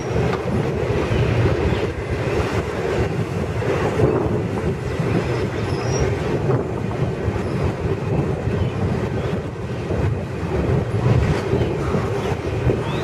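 Double-stack intermodal freight train's well cars rolling past close by: a steady, loud rumble of steel wheels on the rails.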